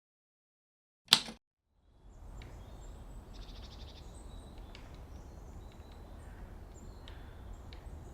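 Outdoor ambience: a steady low rumble with small birds chirping now and then. It fades in about two seconds in, after a single short sharp sound about a second in.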